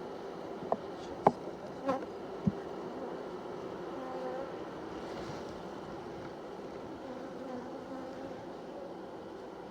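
Honeybees buzzing steadily around an open hive, with four sharp knocks in the first few seconds.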